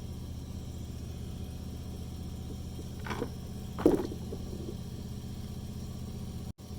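Steady low mechanical hum, like a motor or engine running at an even speed, with two short knocks about three and four seconds in, the second louder.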